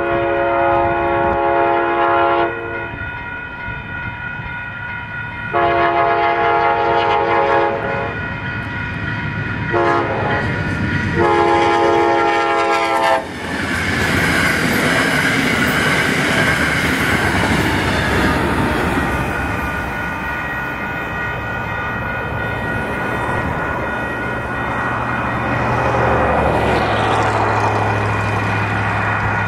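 Train horn blowing the grade-crossing signal, long, long, short, long, then the train rushing through the crossing with a loud, sustained wash of wheel and rail noise that slowly fades. The crossing signal's bells ring steadily underneath.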